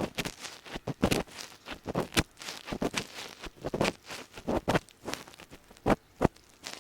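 Ear pick scraping and scratching inside a microphone's ear in close-up, an irregular run of gritty rustling strokes, a few a second, the crackly scraping meant to mimic deep ear cleaning.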